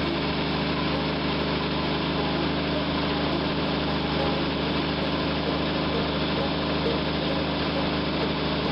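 Jeep 258 inline-six engine running steadily at a constant speed, heard up close at the carburetor, with its choke now set by a hand-pulled manual cable.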